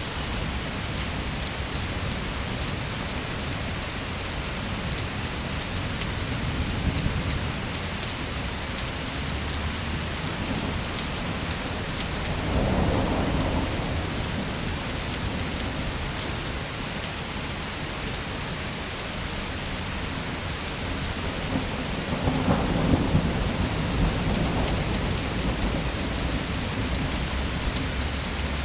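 Steady rain falling, with two low rolls of thunder, one about twelve seconds in and another about ten seconds later.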